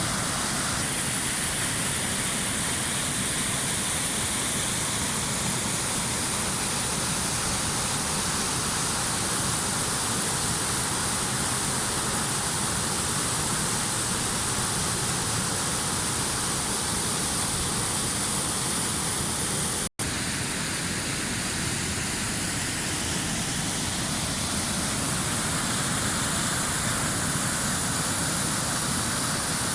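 Waterfall rushing: a steady, loud hiss of falling water that breaks off for an instant about twenty seconds in.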